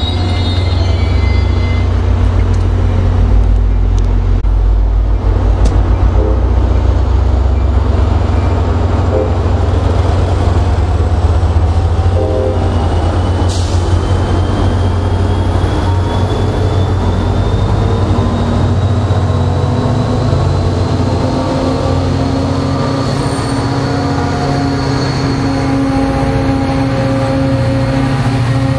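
NJ Transit train pulling away, pushed by its GP40PH-2B diesel locomotive at the rear: a steady low diesel rumble with rolling wheel noise, and a faint whine that rises in pitch as the train picks up speed. The locomotive's engine grows louder toward the end as it comes past.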